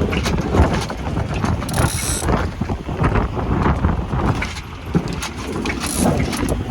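Wind buffeting the microphone aboard a sailing yacht, with irregular clicks and knocks throughout and a short hiss about two seconds in.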